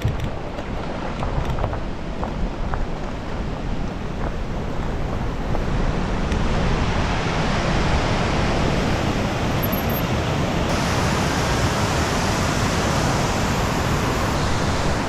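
Steady rush of wind over the microphone, mixed with the rolling noise of a fat-tyre electric bike on a dirt trail while it rides at speed. The rush grows louder about six seconds in.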